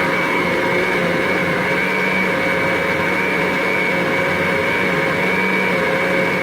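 Electric kitchen blender running at a steady speed, its motor whine holding one pitch, as it purées chopped kale leaves with water into a juice.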